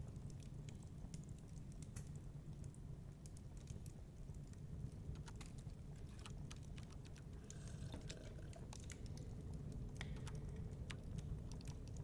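Wood fire crackling, with irregular small sharp pops and snaps over a steady low rumble of distant storm wind.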